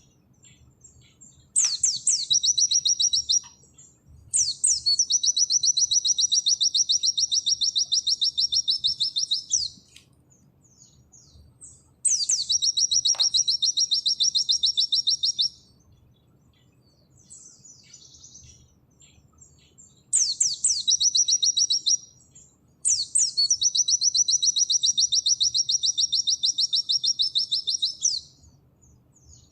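A pleci (white-eye) singing in long, loud, rapid-fire trills: five bursts of fast repeated high notes, each opening with quick downward sweeps, the longest lasting about five to six seconds. Soft scattered chips fill the gaps between them. This is the 'nembak' song that bird keepers prize.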